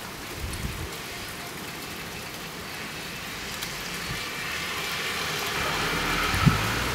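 Steady rain-like hiss of wet, heavy snow and meltwater falling and dripping. Partway through, a car's tyres on the slushy road come in, growing louder toward the end, with a single thump near the end.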